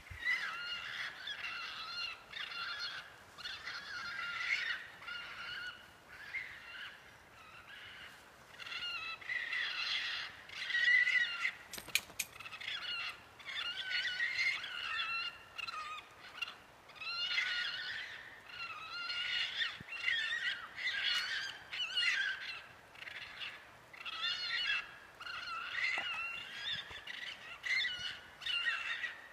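A chorus of many animals calling at once: high, wavering calls that overlap without a break. A single sharp click sounds near the middle.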